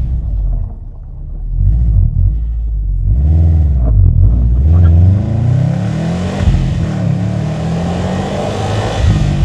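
The turbocharged 2.5-litre boxer four of a 2007 Subaru Impreza WRX STI, tuned to about 400 hp, accelerating under load. The engine note climbs, falls back and climbs again through the middle as it revs through the gears, then settles to a steadier run near the end.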